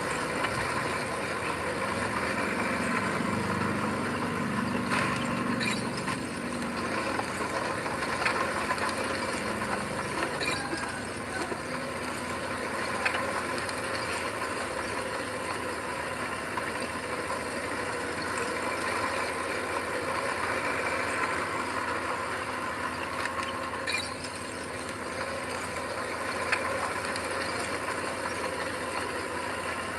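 Diesel engine of heavy earthmoving machinery running steadily, with a few sharp metallic clanks and knocks scattered through.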